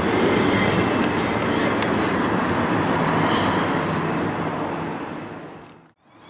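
A train passing at speed, a steady rumble of wheels on the rails, dying away to silence near the end.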